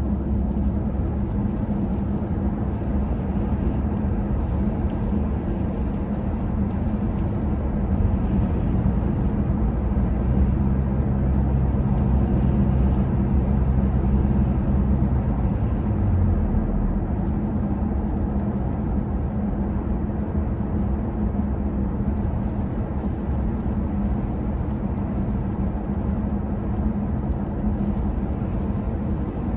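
Steady low rumble of city street traffic with a constant hum. A louder, even engine note comes in about eight seconds in and drops away about halfway through, like a heavy vehicle going by.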